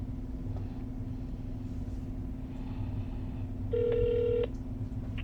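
Telephone call audio between calls: a steady low hum on the line, then a single short electronic phone beep about four seconds in.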